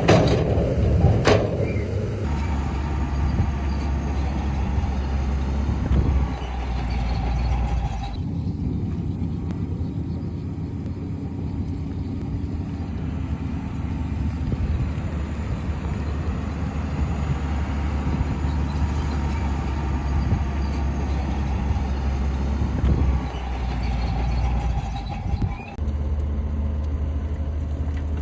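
Heavy diesel construction machinery running steadily, its engine note shifting with load several times, with a sharp clank about a second in.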